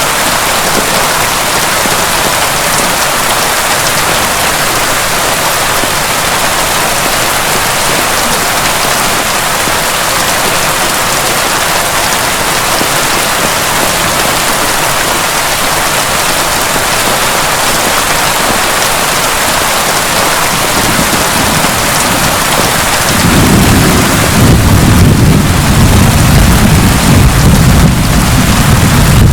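Heavy rain falling steadily, a dense even hiss. About three-quarters of the way through, a deep rumble of thunder comes in and keeps rolling.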